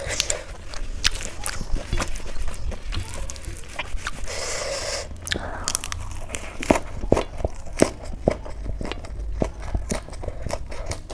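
Close-miked eating: chewing and biting, with many sharp, irregular mouth clicks and crunches, and a brief rasping noise about four seconds in.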